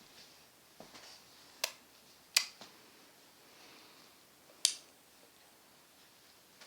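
Three sharp clicks, about a second in, near the middle, and about two-thirds of the way through, with faint breathy sounds between them.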